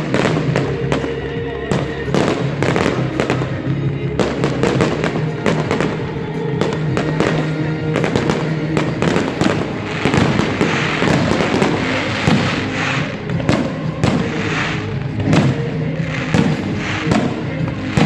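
Fireworks bursting in rapid succession, many sharp bangs and crackles, over loud music played over speakers.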